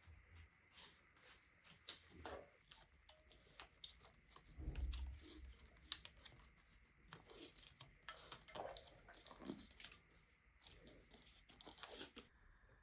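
Irregular scraping, rustling and clicking of hands working on bicycle parts, with a low thud about five seconds in and a sharp click just after.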